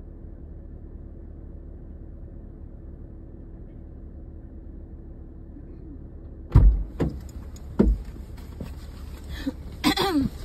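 Car engine idling as a steady, muffled low hum. About two-thirds of the way in, a car door shuts with a heavy thump, followed by a few knocks and rustles.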